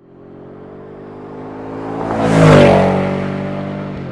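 Ford F-150 Raptor R's supercharged 5.2-litre V8 through an AWE SwitchPath exhaust as the truck drives past: the exhaust note swells to its loudest about two and a half seconds in, drops in pitch as it passes, then fades.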